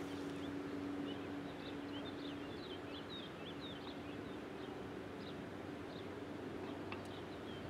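Outdoor ambience: a steady background hiss with a faint low hum, and a small bird twittering in a quick run of short high chirps for a few seconds in the middle.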